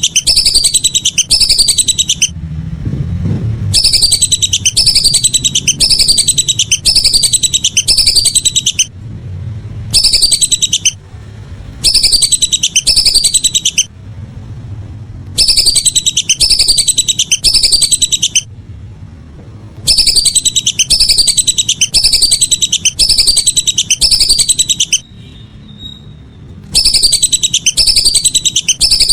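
Lesser whistling duck (belibis) calls, played back loud as a bird-hunting lure recording. They come in bursts of rapidly repeated, high, downward-sliding whistled notes, each burst a few seconds long with short pauses between, over a low background rumble.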